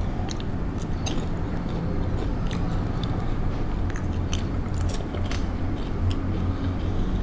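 A person chewing chocolate-flavoured popcorn, with scattered small crunches and crackles, over a steady low hum.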